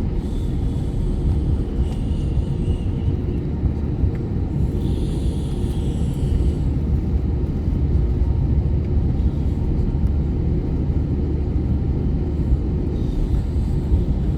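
Steady low rumble of airliner cabin noise, engines and airflow heard from inside the cabin of a jet in flight.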